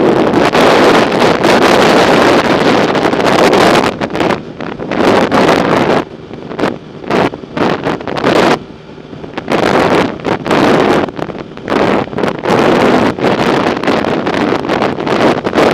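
Wind buffeting the microphone of a camera riding along on a bicycle, loud and gusting, easing off for a few seconds about six seconds in.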